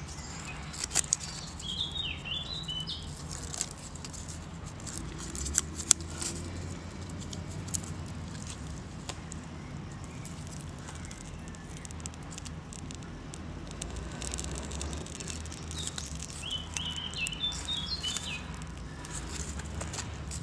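A small songbird sings a short warbling phrase twice, about two seconds in and again near the end. Between the phrases come a few sharp snaps and crackles as birch-bark tinder is handled and catches light, the loudest about a second and six seconds in.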